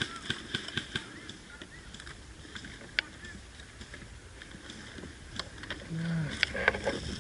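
Scattered sharp clicks and pops of airsoft guns firing across the field, the loudest single shot about three seconds in and a cluster near the end. Short distant calls of voices are heard faintly near the end.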